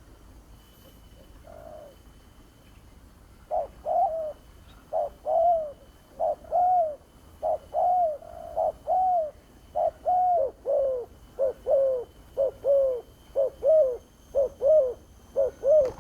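Spotted dove (terkukur) cooing: after a faint note early on, a long run of calls begins a few seconds in, each a short note followed by a longer arching one, the calls coming closer together toward the end.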